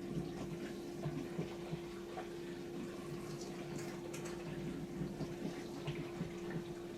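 Bosch compact dishwasher (SKS60E02GB) running a wash cycle: a steady pump hum with water spraying and splashing irregularly inside the tub.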